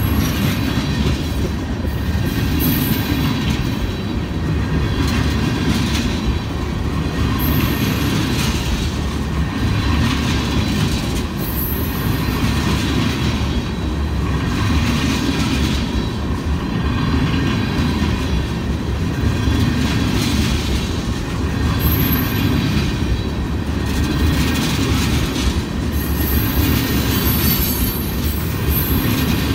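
Freight train of tank cars rolling past close by: a steady rumble of steel wheels on rail that swells in a regular rhythm about every two seconds, with brief high wheel squeals now and then.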